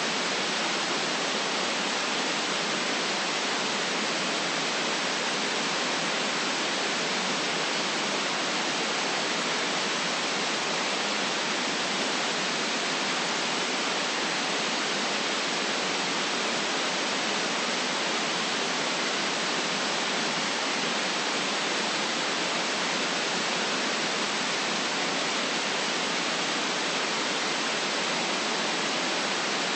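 Steady, unchanging white noise, an even hiss with little bass below about 150 Hz.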